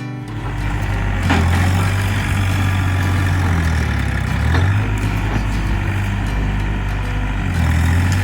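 John Deere tractor engine running steadily, its low hum dipping and picking up again twice as the load changes.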